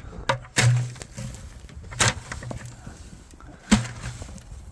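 A few sharp whacks as something weighed down by heavy, packed snow is struck to knock the snow loose: two quick ones at first, then single blows about two seconds in and near the end.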